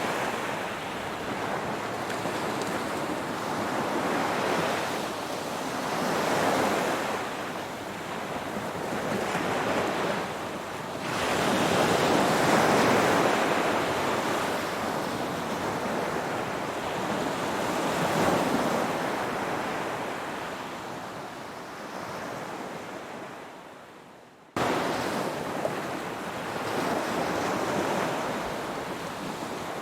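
Ocean surf: waves breaking and washing in, swelling and ebbing every few seconds. About 24 s in the sound fades down and then cuts abruptly back in at full level, a splice in the recording.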